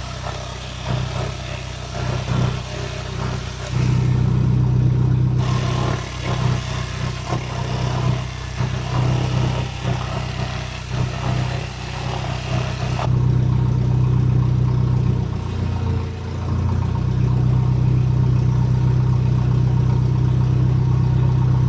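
A forklift engine running steadily at a low, even note, which shifts briefly about three-quarters of the way through. Over it, a hiss comes and goes, with scattered knocks and clatter.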